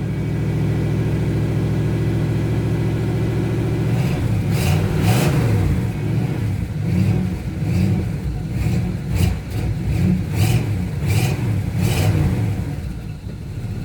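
1983 Pontiac Firebird's engine running just after a cold start: a steady idle, then from about four seconds in, revved in a series of short blips that rise and fall, roughly one a second.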